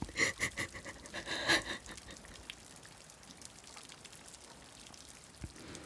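A person's quick, breathy panting breaths for about the first two seconds, then a faint hush with a single low thump near the end.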